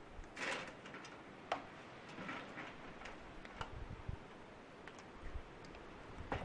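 Faint, scattered clicks and light taps, with a short scrape about half a second in.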